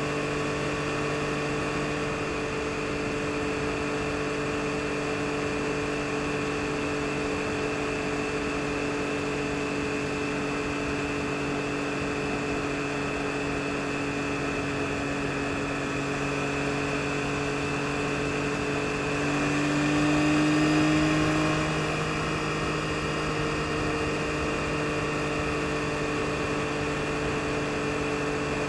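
2022 Yamaha MT-09 SP's 890 cc inline three-cylinder engine running at a steady speed under way. Its tone holds steady, then rises a little and gets louder about twenty seconds in before settling back.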